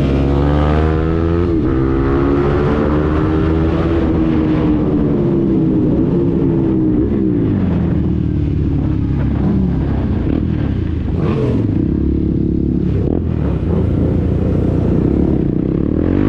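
KTM Duke 390's single-cylinder engine through a Mivv GP Pro exhaust with the catalytic converter removed, accelerating and shifting gears, then rolling off. The pitch rises and falls repeatedly, with several falling sweeps in the middle and a fresh climb near the end.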